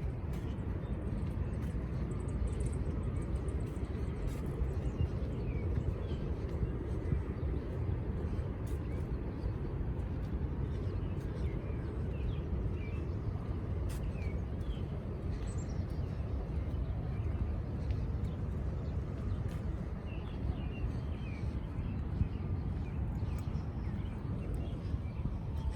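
Steady low roar of the water at Niagara Falls, with a few short bird chirps over it.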